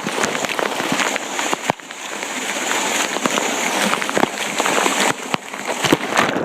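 Water of a waterfall cascade rushing and splashing close by, with many sharp crackling splashes over a steady hiss.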